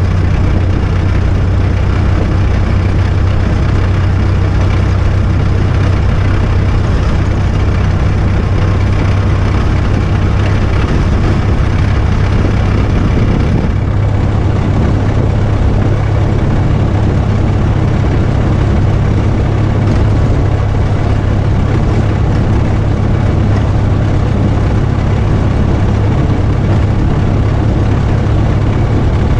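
Vintage car driving at a steady cruising speed: its engine running with an unchanging low drone, mixed with wind and road noise.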